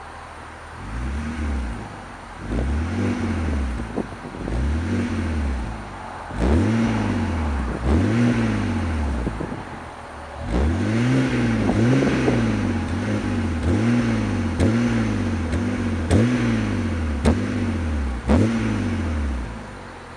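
BMW E92 328i's N52 3.0-litre straight-six, breathing through a Scorpion aftermarket exhaust, blipped repeatedly from idle. There are single rev blips at first, then a fast run of about eight quick blips in a row, with a few sharp cracks among them, before it settles back to idle.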